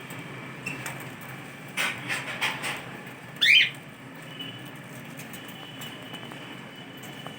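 A cockatiel gives one short chirp that rises in pitch, about halfway through, just after a few quick clicks.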